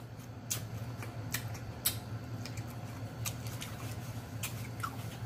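Close-miked chewing of a bite of green chili pepper: scattered wet mouth clicks and lip smacks at an irregular pace, over a steady low hum.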